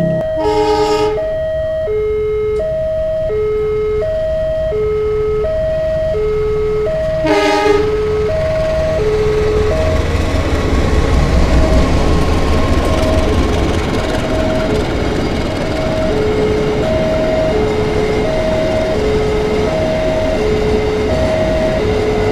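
A level-crossing warning alarm sounds throughout, alternating a high and a low tone. Two short train horn blasts come about a second in and again about seven seconds in. A diesel locomotive then passes close by, its low engine rumble loudest a few seconds later, and a long string of freight wagons follows, rumbling over the rails.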